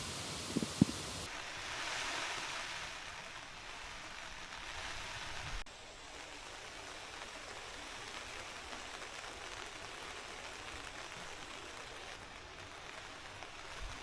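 Steady heavy rain hiss, changing character abruptly about a second in and again near six seconds. A couple of short low thuds come in the first second.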